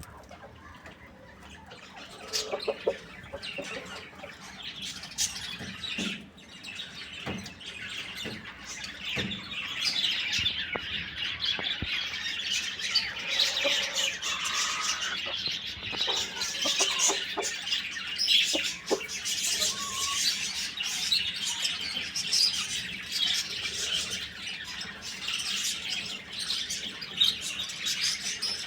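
Many birds chirping and calling together in a dense, busy chatter that grows louder about a third of the way through, with scattered short knocks.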